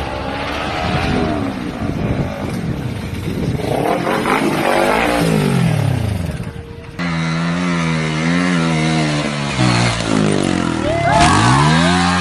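Motorcycle engines revving, their pitch rising and falling. The sound changes abruptly about seven seconds in to another engine running with a wavering pitch, which drops and climbs again near the end.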